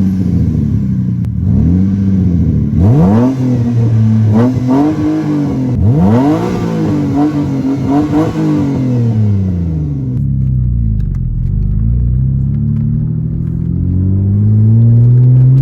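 A Mitsubishi 3000GT SL's V6 engine is revved in a string of quick blips, after which the revs drop and then climb steadily again near the end. The exhaust has a leak that the owner made with washers.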